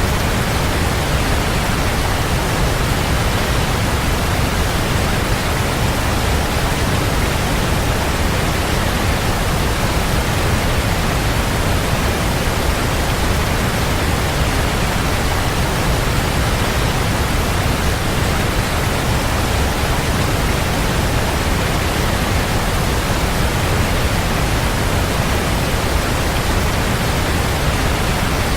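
Waterfall: a steady, unbroken rush of falling water, with deep low rumble and no change in level.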